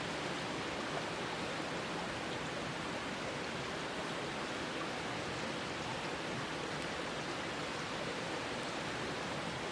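Steady hissing, rushing noise of water at a rolling boil in a titanium pot over a campfire, with ramen noodles cooking in it.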